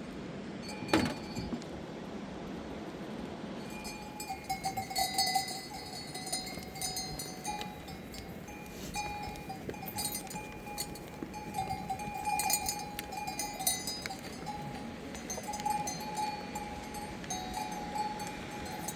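Metal bells on livestock clinking irregularly, starting a few seconds in and carrying on, with a single sharp knock about a second in.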